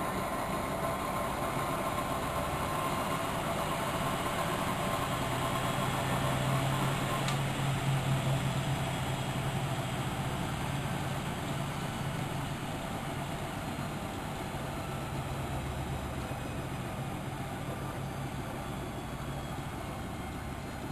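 Miele De Luxe Electronic W763 washing machine running, a steady motor and drum hum that swells for several seconds in the middle and then eases off slightly.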